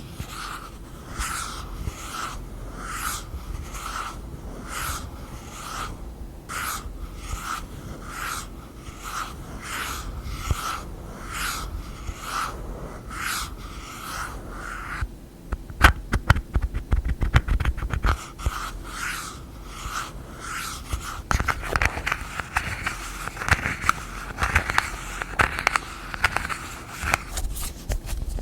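Close-miked ASMR hand sounds on objects: even scratching strokes about one a second for the first half, then a quick flurry of sharp taps a little past halfway, then denser, faster scratching near the end.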